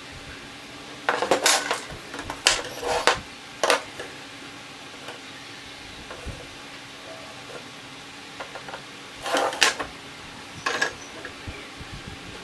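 Clinks and knocks of small hard tools and parts being handled at a workbench while a bird cage is made. They come in short clusters: a busy run from about one to four seconds in, then another around nine to eleven seconds.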